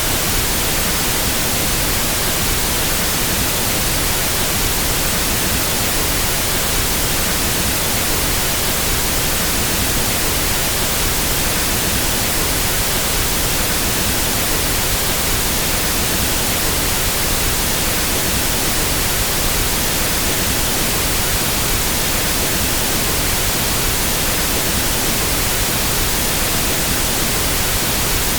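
Pink noise test signal of the kind used to equalize a sound system: an even, unchanging hiss.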